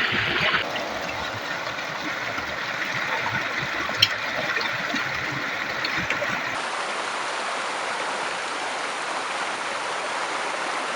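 River water rushing and splashing steadily, with a single sharp knock about four seconds in.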